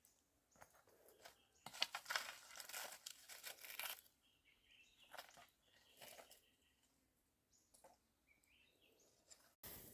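Faint crackling and rustling, loudest for about two seconds early in the stretch, with a few short high chirps later on.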